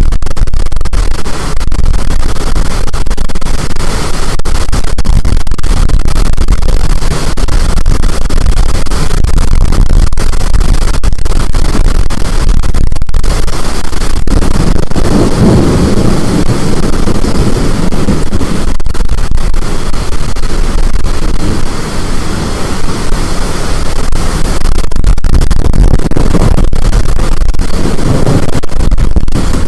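Storm wind blasting the microphone, loud and distorted, with heavy low buffeting that swells about halfway through and again near the end.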